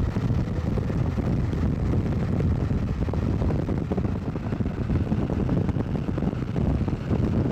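Steady low rumble of a vehicle driving, with road and wind noise buffeting the microphone.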